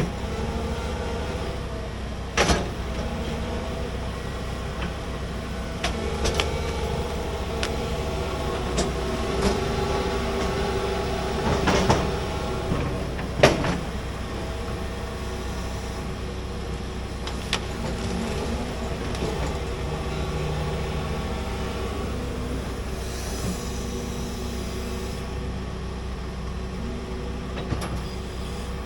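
Large excavator's diesel engine running steadily under work, with a few sharp clanks and knocks from the machine digging, the loudest a little before halfway.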